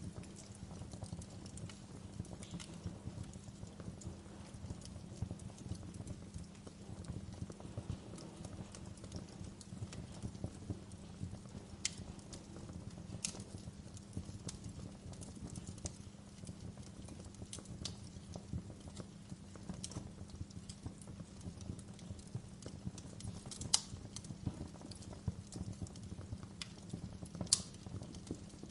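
Fireplace fire burning with a steady low rumble of flames and constant faint crackling, broken by a few sharper pops about halfway through and near the end.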